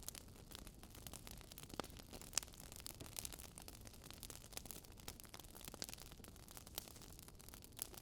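Wood fire crackling: burning logs giving off irregular sharp pops and snaps over a low hiss. The loudest pop comes about two and a half seconds in.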